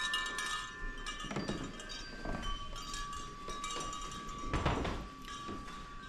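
Hanging wind chimes ringing softly, stirred by the draught of ceiling fans, with a few dull thuds.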